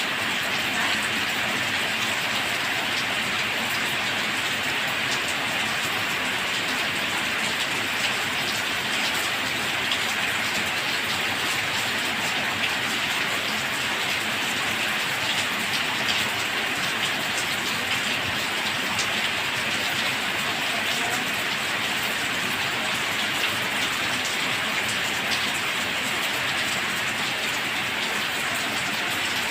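Steady rain falling, a dense even hiss with small scattered drop ticks.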